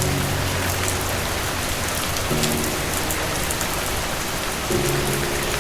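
Steady rain falling on a surface, a dense patter of drops, with soft low notes of calm background music coming in about every two and a half seconds.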